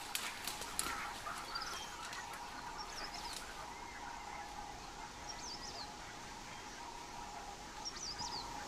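Faint wild-bird chirps, short high calls every couple of seconds, over a quiet steady background tone and haze.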